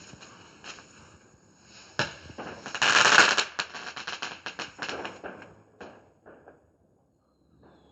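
Fireworks going off: a sharp bang about two seconds in, then a dense, loud burst of crackling that thins into scattered pops and dies away near the end.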